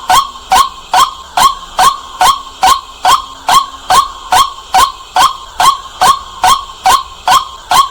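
White-breasted waterhen calling loudly, a short rising 'kwak' repeated evenly about two and a half times a second.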